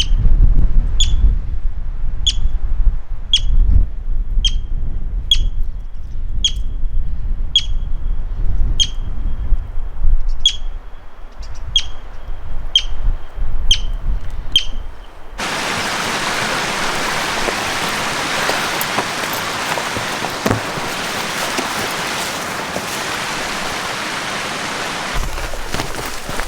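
A high chirping call, each a short downward sweep ending in a brief held note, repeated about once a second over wind rumbling on the microphone. About fifteen seconds in it cuts to a steady rushing hiss.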